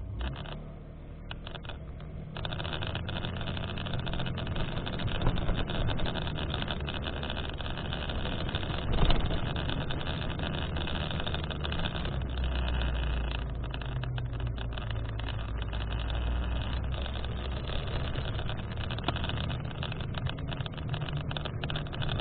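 Steady rushing noise with a low rumble, missing everything above a mid-high pitch, that starts abruptly, steps louder about two seconds in and swells briefly near the middle. This is the abnormal noise in the AD910's sound pickup.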